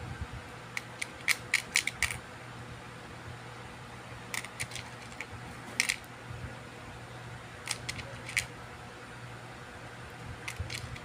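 Small sharp clicks and taps in several quick groups, as of small hard parts or boards being handled, over a steady low hum.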